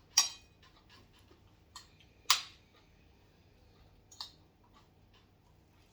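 Metal eating utensils clinking against dishes four times, the loudest clink about two seconds in leaving a brief ring.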